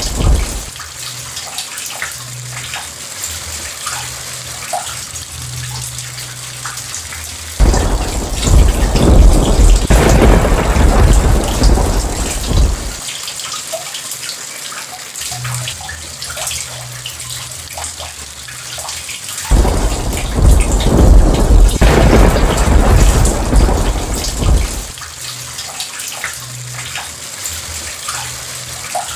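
Steady rain falling with thunder: the tail of a rumble dies away in the first second. A sudden loud rumble of thunder breaks in about eight seconds in and lasts some five seconds, and another comes about twenty seconds in.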